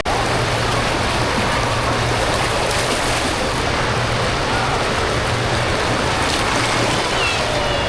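Steady rush of running and splashing water with faint distant voices: the echoing din of an indoor water park.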